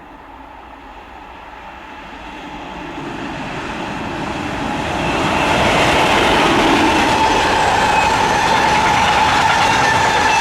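A train approaching along the line, growing steadily louder over about five seconds. It then passes close by with a steady rush of wheels on rail and a thin steady whine above it.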